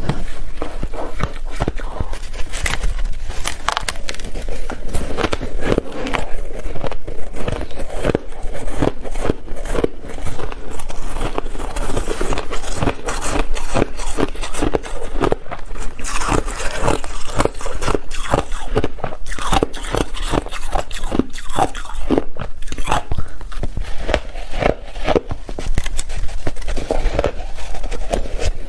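A person biting and chewing ice, a dense run of crisp crunches and cracks with no break.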